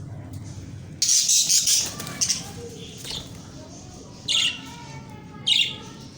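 Budgerigars chirping and squawking: a loud harsh call about a second in, then a few short sharp calls, the two loudest near the end.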